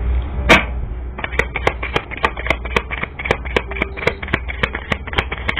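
Tarot cards being shuffled by hand: one sharp snap about half a second in, then a regular run of card clicks, about three or four a second, over a low hum.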